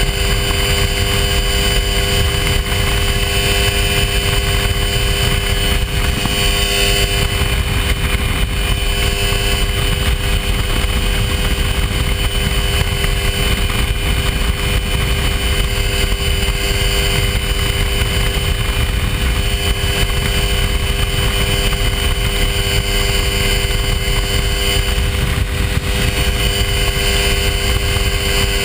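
Hy-Tek Hurricane ultralight airplane's engine running steadily in flight, a constant loud drone that does not change in pitch or level.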